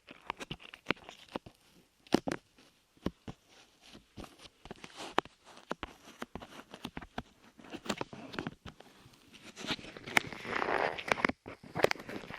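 Light clay being squished and pulled against a microphone's ears, making sticky crackles and irregular clicks, which thicken into a denser crackling for a second or so near the end.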